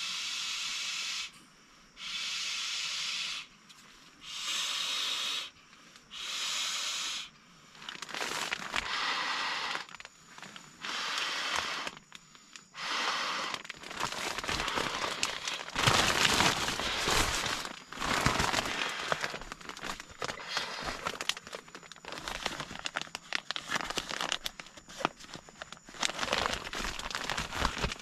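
A hissing stroke repeated evenly about every second and a half, each lasting about a second. After about eight seconds it gives way to steady crinkling and crackling, like crumpled material being handled.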